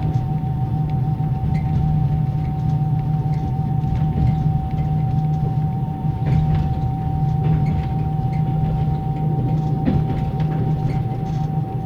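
Inside a Russian compartment passenger car: the car's axle-driven generator gives a steady high whine over the deep rumble of the running gear, with scattered clacks from the wheels on the rail joints.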